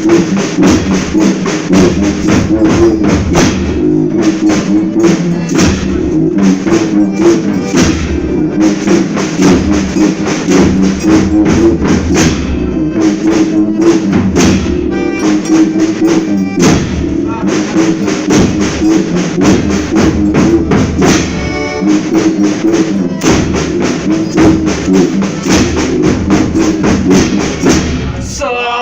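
Brazilian folia band playing an instrumental passage between sung verses: a drum beats a quick, steady rhythm over sustained pitched instruments.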